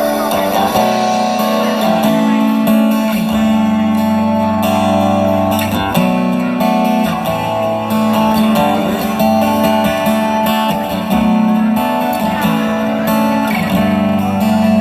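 Live country band playing an instrumental passage, guitars to the fore over a bass line that changes note every second or two.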